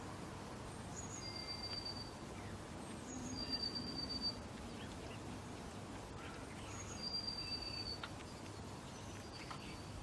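Small songbird singing: a short high note followed by a thin, level whistle, repeated about every three seconds, over faint steady outdoor background noise.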